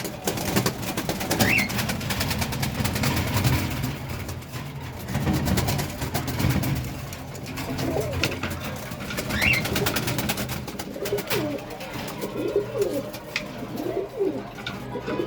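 Pigeons cooing in low, repeated calls, over a scatter of fine clicks, with two short, rising high chirps, one about a second and a half in and one about nine seconds in.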